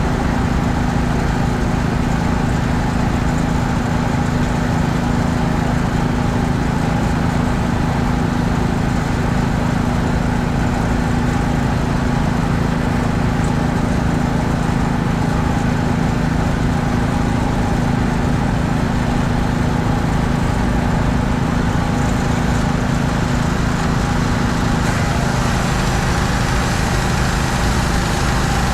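A pressure washer's small gas engine running steadily under load. Near the end its steady hum changes and a higher hiss grows louder.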